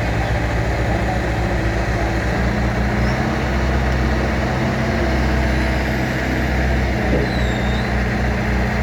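Heavy diesel engine running close by with a low, pulsing beat; its speed picks up about three seconds in and holds there.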